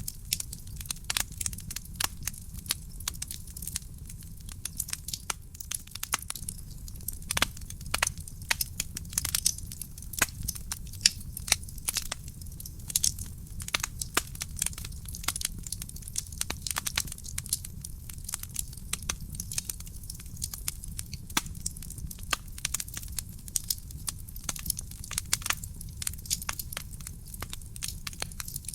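Wood fire burning in a fireplace: logs crackling and popping with frequent irregular sharp snaps over a steady low rumble of the flames.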